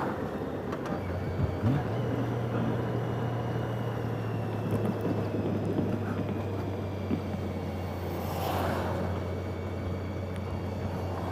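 Motorcycle engine running steadily while riding, with road and wind noise; a short rush of noise swells and fades about eight or nine seconds in.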